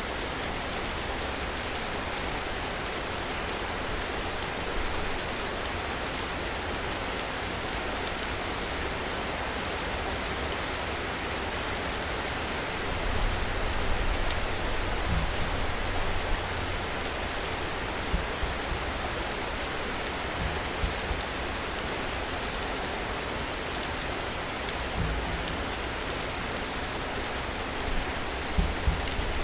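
Steady city rain falling, an even hiss of drops. Low rumbles swell in twice, about halfway through and near the end.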